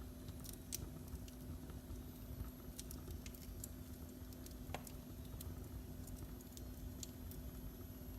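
Wood fire burning in a fireplace: scattered sharp crackles and pops over a low steady rumble, with a faint steady hum underneath.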